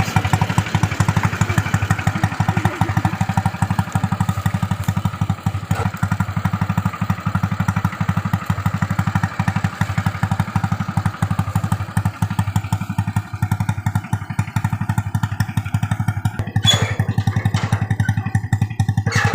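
Honda Revo single-cylinder motorcycle engine powering a homemade vehicle, running steadily with an even, rapid exhaust beat. A few brief knocks come near the end.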